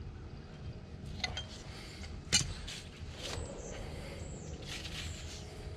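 Metal hand tools clinking and scraping on the front wheel hub while the wheel bearing spindle nut is adjusted, with one sharp metallic clink about two and a half seconds in as the loudest sound.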